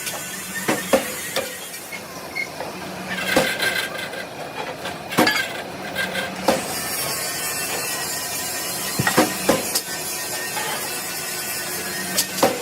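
Metal clanks and knocks at irregular intervals, some ringing briefly, over a steady hiss, as in steel rim work in a metal shop.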